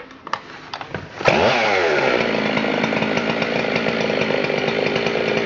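Husqvarna 372 XP 72cc two-stroke chainsaw engine. A few clicks come first, then about a second in the engine catches with a brief burst of revs that falls away, and it settles into running steadily.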